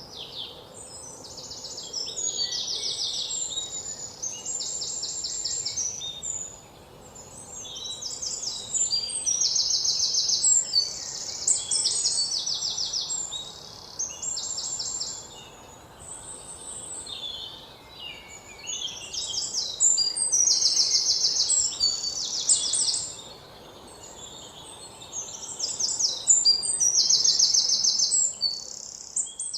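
Birds singing, with fast high trills of about a second repeated every few seconds and other shorter calls between them, over a faint steady background hiss.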